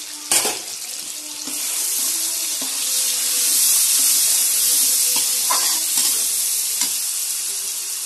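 Tomato-and-spice masala sizzling in hot oil in a kadhai, stirred with a steel ladle, with a sharp clink of the ladle near the start. The sizzle swells a second or two in as the freshly added turmeric, salt and garam masala are stirred through.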